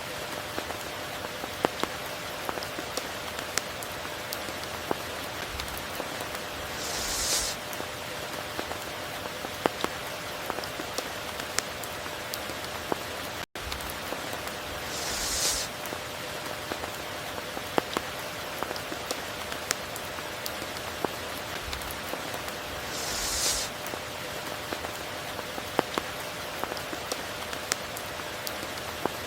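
Steady tropical rain with scattered individual drops ticking close by. A brief hissing swell comes about every eight seconds, and the sound cuts out for an instant about halfway through.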